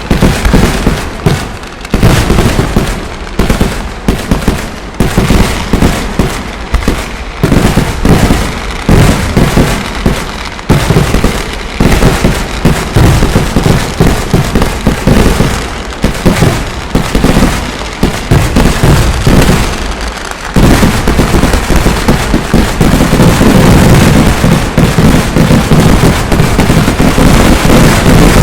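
Pooram festival fireworks: a rapid barrage of loud firecracker blasts, several a second. About two-thirds of the way through it thickens into one continuous, unbroken roll of explosions.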